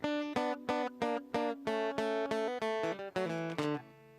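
Guitar strummed in a quick, even rhythm, about three strums a second, as the intro to a country song, with the low notes stepping down near the end.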